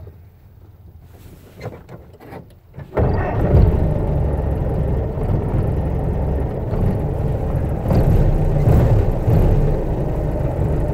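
Ford Model T four-cylinder engine being started: a few short clicks, then about three seconds in the engine catches and runs steadily.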